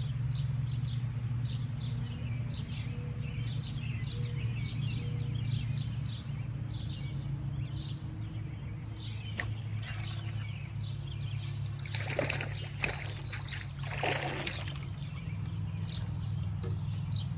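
Birds chirping repeatedly over a steady low hum. From about ten seconds in come several louder bursts of splashing water.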